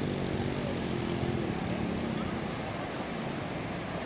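A steady engine drone fades away over the first two seconds, leaving an even hiss of surf and wind.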